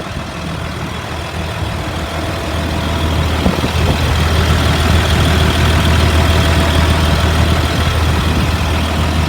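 2004 Blue Bird All American school bus engine idling steadily, growing louder a few seconds in. It idles smoothly: the engine is in good running order.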